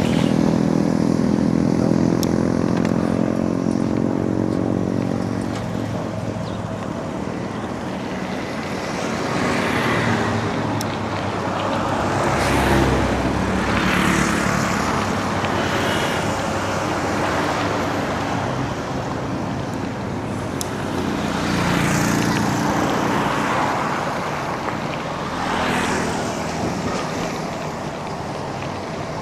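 Road traffic around a cyclist: a nearby vehicle's engine runs with a steady pitch and fades over the first few seconds, then several vehicles pass one after another, their noise swelling and fading.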